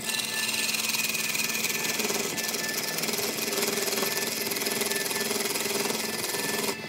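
Turning tool cutting into a large wooden cylinder spinning on a wood lathe: a loud, harsh rasping chatter as shavings tear away. A steady tone joins it about two seconds in, and the cutting stops abruptly just before the end.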